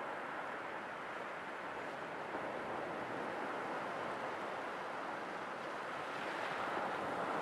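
Sea waves: a steady rushing hiss of surf that swells slightly near the end.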